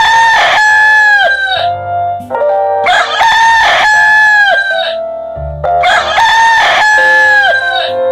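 Rooster crowing three times, each crow a long held call that falls off at the end, with steady background music under it.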